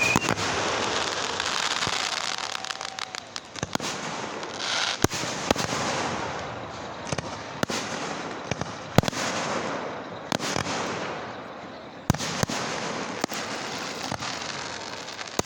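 Fireworks going off: a dense crackling, with sharp bangs every second or so.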